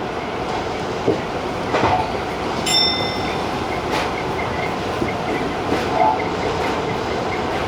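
Tobu Tojo Line TJ Liner electric train running at speed: a steady rumble of wheels on rail, with a few irregular clicks over rail joints.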